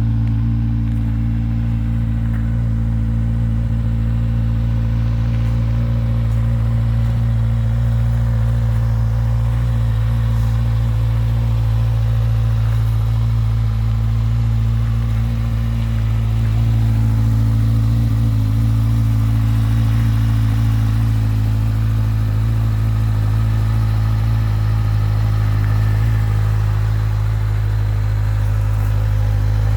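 2011 Kawasaki Z1000's inline-four engine idling steadily, warming up after a cold start.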